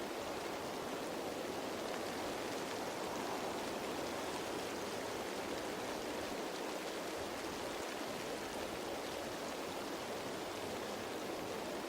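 Steady rain falling on leaves, an even unbroken hiss.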